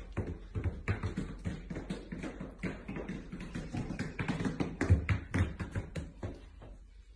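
Two huskies in dog boots walking on a hard floor: many quick, uneven taps and light thuds from the booted feet, with one louder thud about five seconds in.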